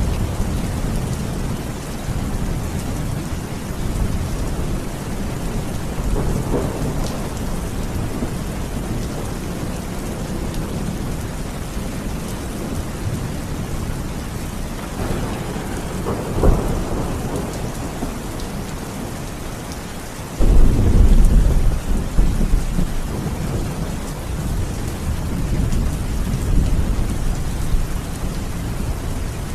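Steady rain with rolling thunder: deep rumbles swell several times, the loudest breaking in suddenly about two-thirds of the way through.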